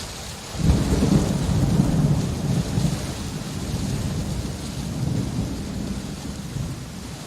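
Steady rain with a low roll of thunder that swells in about half a second in, is loudest over the next second or two, then slowly rumbles away.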